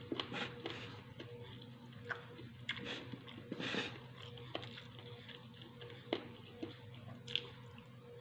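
A person chewing and biting food close to the microphone, with irregular wet mouth clicks and smacks, over a steady low hum.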